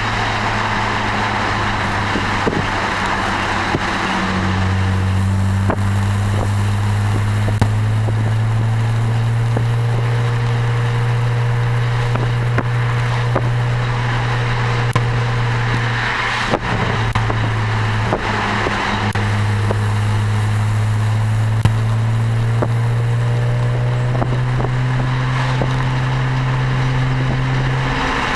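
BMW 335i's turbocharged straight-six through an Eisenmann Race exhaust at cruise: a steady, low exhaust drone that creeps up in pitch, breaks off briefly around the middle, then climbs slowly again. Road and wind noise run underneath.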